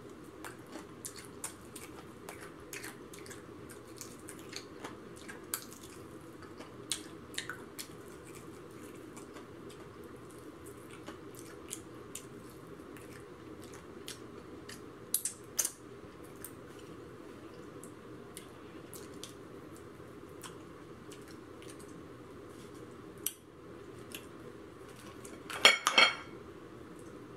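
Mouth-close chewing of crispy fried chicken, with small crackles as the pieces are bitten and pulled apart by hand, over the steady hum of an electric fan. A short, louder burst of crackling comes near the end.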